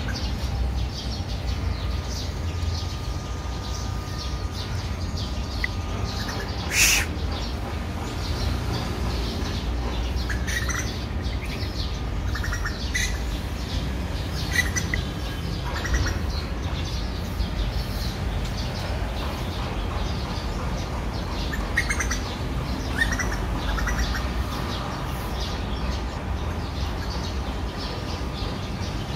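Birds chirping now and then over a steady low background rumble, with a short, louder burst of noise about seven seconds in.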